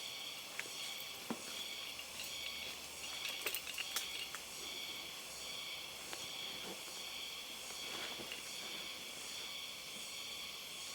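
A steady chorus of insects chirping, high-pitched and pulsing, with a few faint clicks about three to four seconds in.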